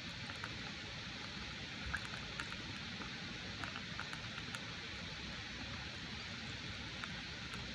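Steady rain falling, a soft even hiss with scattered sharp drop ticks.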